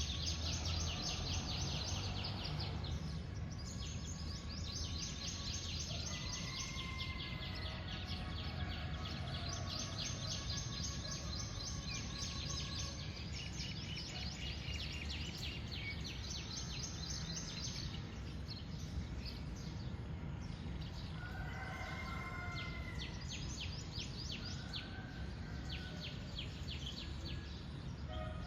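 Wild birds calling: long runs of rapid, high-pitched chirping with a few short whistled calls scattered through, over a steady low background rumble.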